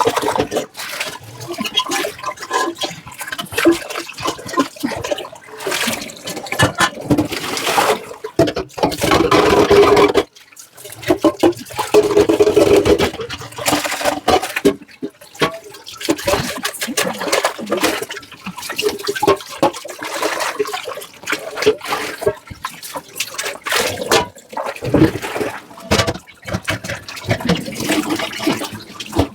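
Tap water running over dishes in a kitchen sink during hand washing, with frequent clinks and knocks of crockery against each other and the sink. The flow stops briefly about ten seconds in and starts again.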